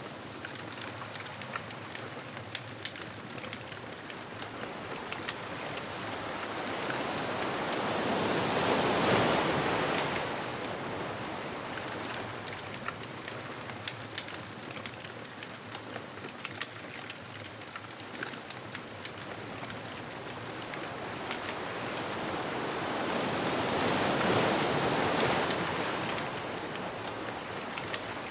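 Ocean waves breaking on a beach, the surf swelling up twice about fifteen seconds apart, about a third of the way in and near the end, then washing back down. A fine, steady crackle runs underneath, from the beach bonfire.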